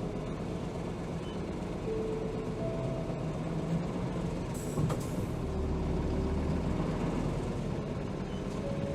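Interior running sound of a 2007 Hino HR (BDG-HR7JPBE) city bus, its diesel engine running steadily. About five seconds in there is a click with a short hiss of air.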